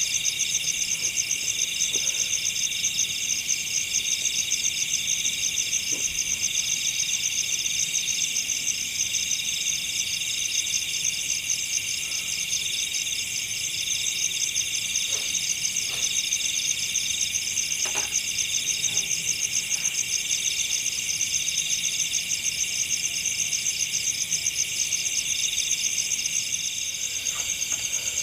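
Steady night chorus of forest insects: several high, fast-pulsing trills overlapping without a break. A few faint knocks sound now and then.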